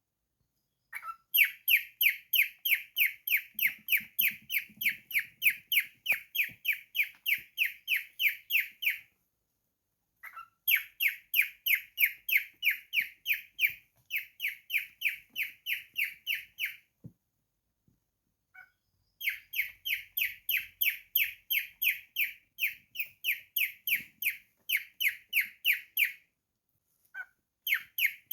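Cockatiel chirping a rapid string of identical sharp high notes, about four a second, in several long runs broken by short pauses, each run opening with a single lower note.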